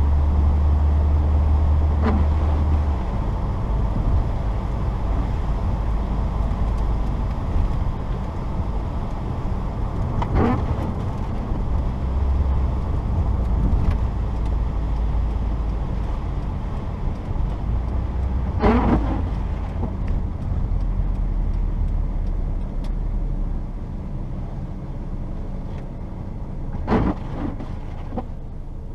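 Inside the cabin of a 1994 Saturn SL2, its twin-cam four-cylinder and its tyres on a snowy road make a steady low rumble. Four times, about every eight seconds, the windshield wipers make a short noisy sweep across the glass. The blades are cheap Rain-X wipers, worn and due for replacement.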